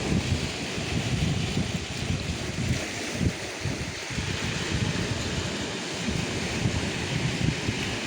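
Calm sea waves washing steadily, with light winter wind gusting on the microphone; the wind rumble eases in the middle and picks up again near the end.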